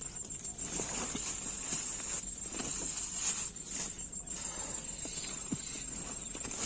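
Crickets trilling steadily, with irregular rustling and a few soft knocks of things being handled close by.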